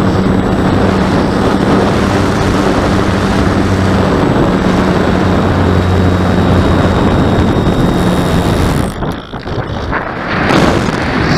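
Loud wind rushing over the microphone during an RC glider flight, with a steady low hum underneath. About nine seconds in, the hum stops and the noise drops and flutters, then surges again briefly near the end.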